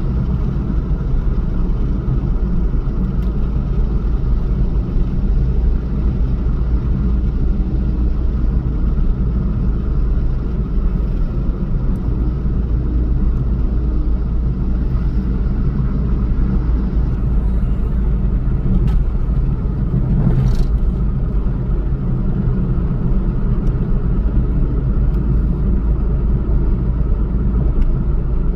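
A motor vehicle running steadily, a continuous low rumble of engine and road noise, with one brief sharp click about two-thirds of the way through.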